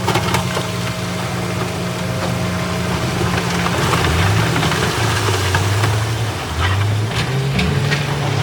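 Heavy earthmoving machine's diesel engine running under load, its pitch dropping and rising a few times, with a few sharp knocks over it.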